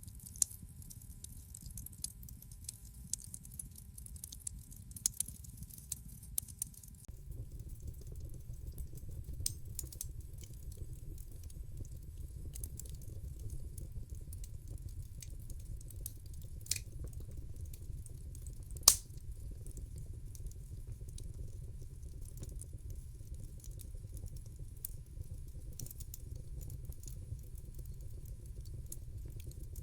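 Wood fire in a fireplace crackling, with scattered sharp snaps and pops over a low steady rumble. The rumble grows louder about a quarter of the way in, and one pop about two-thirds of the way through is much louder than the rest.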